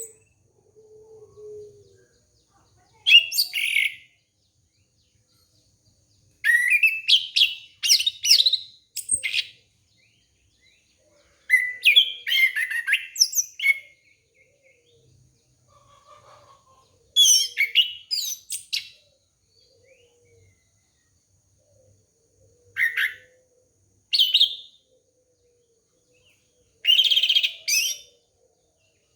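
Orange-headed thrush singing in short bursts of quick, varied whistled phrases, about seven of them, separated by pauses of one to three seconds.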